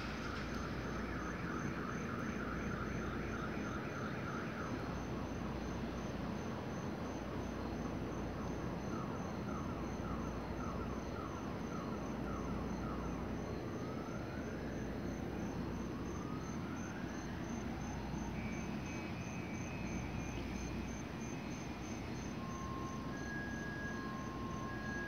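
Amtrak train standing at the platform with its equipment humming steadily, crickets trilling throughout. Several rising electronic whines sound partway through, and near the end a steady beeping alternates between two notes.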